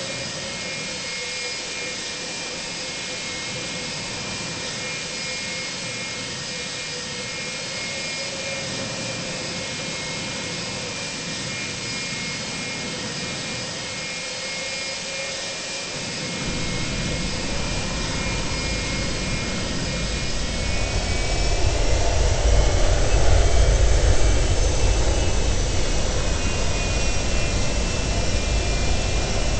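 Cabin noise of a Boeing 737-200 jetliner, its Pratt & Whitney JT8D turbofans running steadily with a high whine. About halfway through a deep rumble sets in suddenly, and a few seconds later the engine whine rises in pitch and the noise grows louder, peaking near the end.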